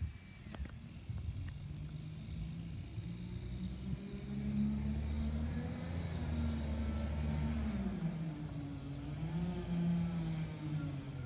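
Garbage truck engine running, picking up speed about four seconds in and then rising and falling in pitch.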